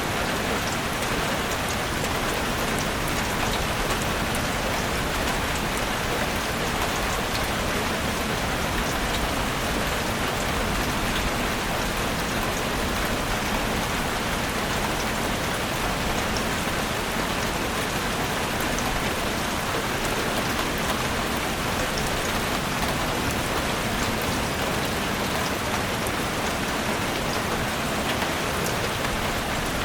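Steady rain falling in a forest, a continuous even hiss of drops with fine patter on leaves and surfaces.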